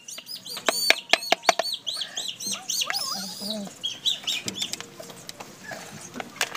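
Birds chirping: a rapid run of high, arched calls, several overlapping, through the first four seconds. Around a second in come a few light metallic clinks as swing-motor parts are handled.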